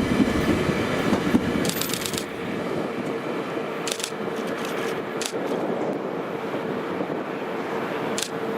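A train of rail cars rolling past, its rumbling wheel noise dropping away about two seconds in. After that comes a steady background hum with a few brief high-pitched clinks.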